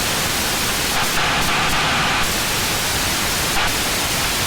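Cockpit noise of a Cessna 172B in flight: its engine and the airflow heard as a steady hiss, with no clear tone or rhythm.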